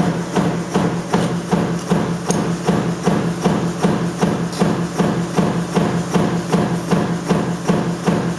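Mechanical stamping press running continuously, knocking about three to four times a second over a steady low hum.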